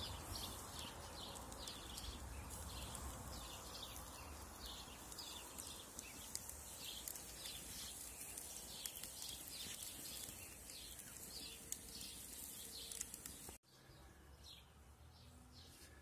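A small bird chirping over and over, about two short chirps a second, over a steady low background hiss. The sound drops off abruptly near the end, with a few fainter chirps after.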